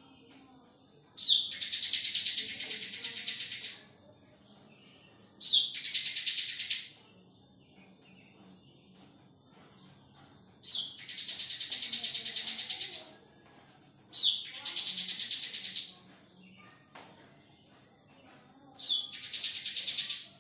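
Bar-winged prinia (ciblek) calling: five bursts of rapid, high-pitched trilling, each opening with a short sharp note and lasting one to two and a half seconds, with short quiet gaps between.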